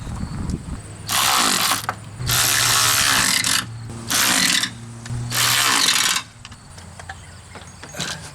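Cordless power driver running in four short bursts as it drives the throttle body mounting bolts down. Its motor speeds up and slows with each burst, with light clicks of the tool and parts between.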